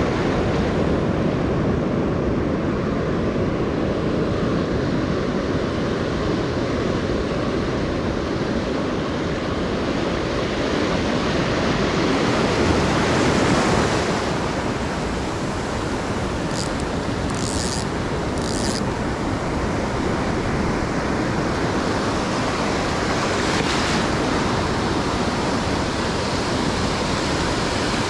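Ocean surf washing steadily onto a beach, swelling louder about halfway through, with wind buffeting the microphone.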